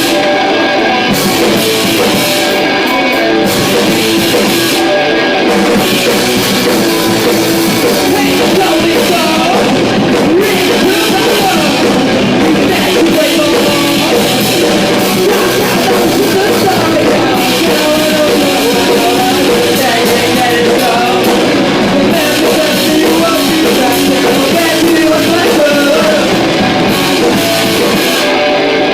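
A rock band playing live, loud and continuous: distorted guitars, bass and a drum kit, with singing.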